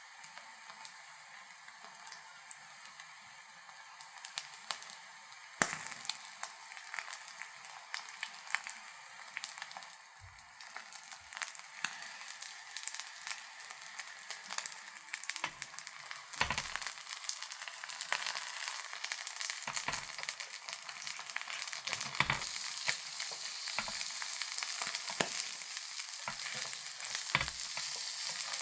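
Food frying in hot oil, a steady sizzle full of crackles that jumps up about five seconds in and grows louder, with a few sharp knocks scattered through it.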